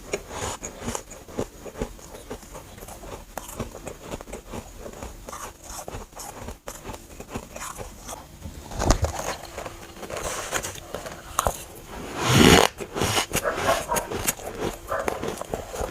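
Close-miked biting and chewing of dry, powdery freezer frost: a rapid, irregular run of small crunches and squeaks, with a louder burst about twelve seconds in.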